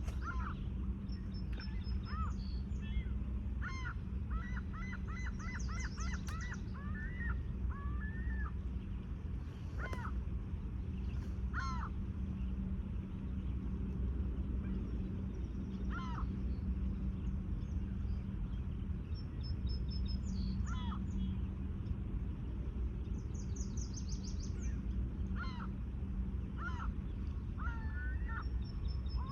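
Birds calling over a steady low hum: a quick run of short calls about four to eight seconds in, then scattered single calls, with higher chirps from small birds.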